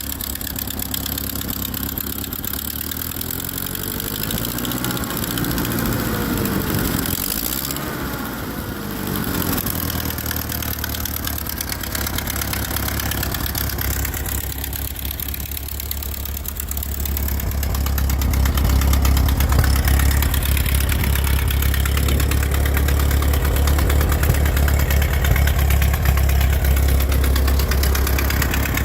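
Ford farm tractor engine running, revved up and let back down a few seconds in, then running louder and steadier from about two-thirds of the way through.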